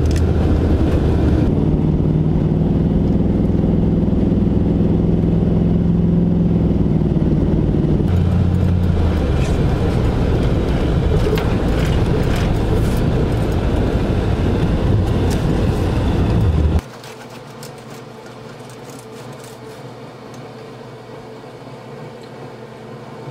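A vehicle engine running under way on a snow-covered road, its pitch stepping to new levels a couple of times as the speed changes. About seventeen seconds in the engine sound cuts off abruptly, leaving a much quieter steady hum.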